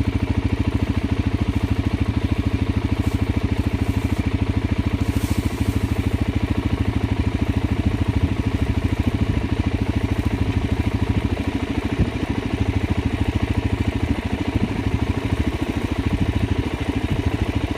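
Suzuki DR-Z400 single-cylinder four-stroke motorcycle engine running steadily at low revs, a rapid even beat of firing pulses.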